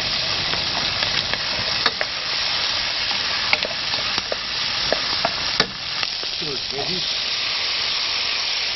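Diced potato, onion and garlic frying in oil in a metal pan over a wood fire: a steady sizzle, with the scattered clicks and scrapes of a wooden spoon stirring against the pan.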